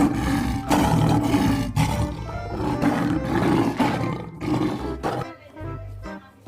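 Recorded lion roar sound effect, one long roar that fades out after about four seconds, over background music.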